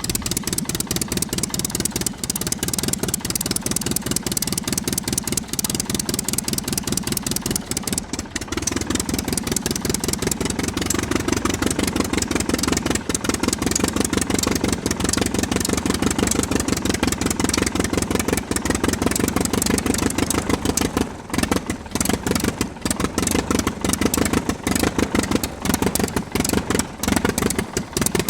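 Engine sound running steadily with rapid, even pulses, becoming fuller and louder about eight seconds in.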